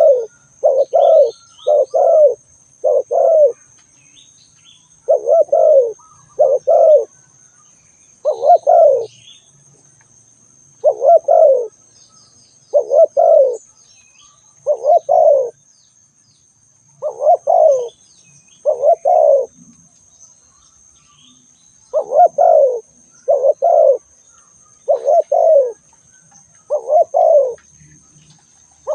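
Spotted dove cooing repeatedly: low, hollow coos in short phrases of two or three notes, one phrase every one to two seconds.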